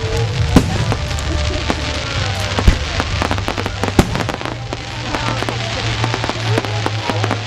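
Fireworks display going off: an irregular string of bangs and crackles from bursting aerial shells, several louder reports standing out, about two-thirds and halfway through.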